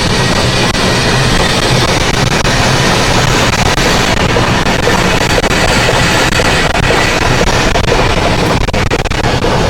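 A train rolling along, a loud steady rumble and rattle of its cars.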